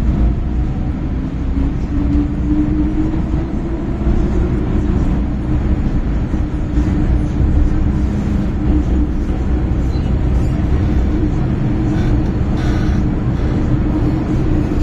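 MTR M-Train electric multiple unit running, heard from inside the car: a steady rumble with a motor tone that rises a little a few seconds in.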